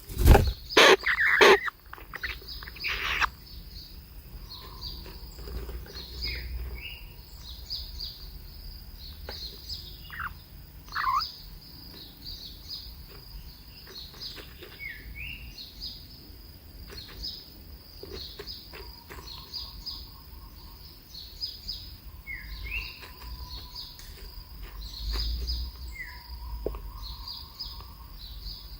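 Small birds chirping, many short repeated chirps throughout, over a steady high tone. A few loud knocks or bumps in the first three seconds are the loudest sounds.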